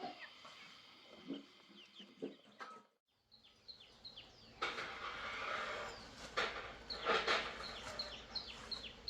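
Chickens and small birds calling around a farmyard, with quick chirps repeating several times a second. The sound drops out briefly about three seconds in. After that come scattered knocks and rustling.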